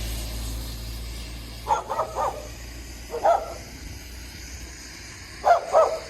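A dog barking in short groups: three quick barks about two seconds in, a single bark a little later, and two more near the end.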